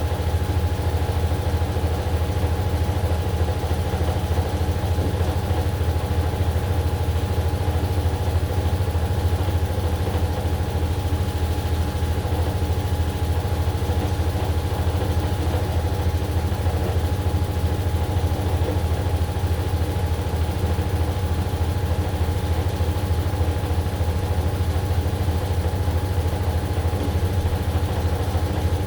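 AQUA AQW-DX12M front-loading drum washing machine running steadily: a constant low hum with a fast, even pulse and a thin, steady whine above it.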